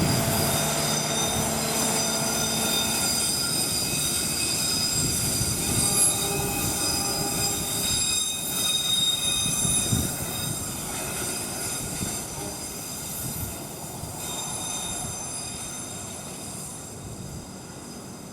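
KA Brantas passenger train rolling past: a rumble of wheels on rail with a steady high squeal, a low hum that fades in the first few seconds, and a couple of louder knocks about six and ten seconds in. The sound dies away over the last several seconds as the train moves off.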